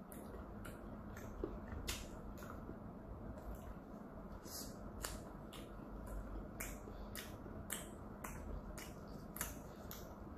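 Close-miked chewing of a chewy dumpling. It makes irregular wet mouth clicks and smacks, about one or two a second.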